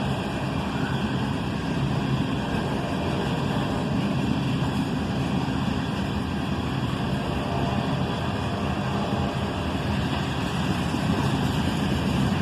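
Loaded iron-ore freight cars rolling past on steel wheels and rail, a steady rumble.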